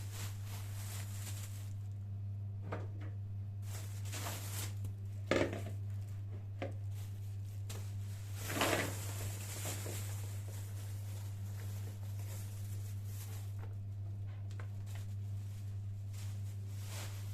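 Scattered rustling and light knocks of things being handled, over a steady low hum; a sharp knock about five seconds in and a longer rustle a few seconds later stand out.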